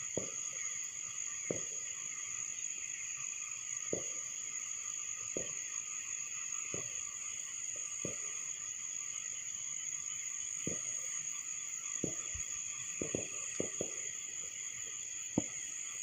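Steady high-pitched chorus of crickets and other night insects, with about a dozen dull booms of distant fireworks at irregular intervals, several close together past the middle and a sharper one near the end.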